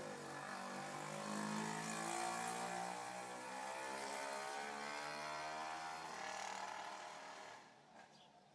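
Chevrolet Aveo engine running after its ECU was repaired, now firing where it would not start before. Its pitch slowly rises, then sinks, and the sound fades out about 7.5 seconds in.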